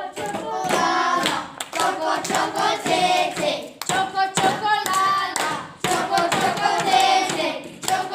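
Several high voices singing together, with hand clapping striking through the song.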